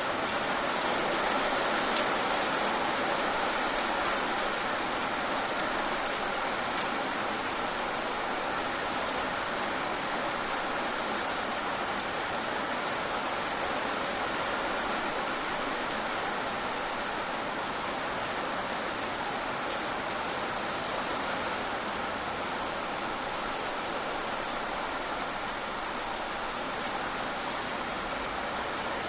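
Steady rain falling, with the odd sharper drop ticking through the even hiss.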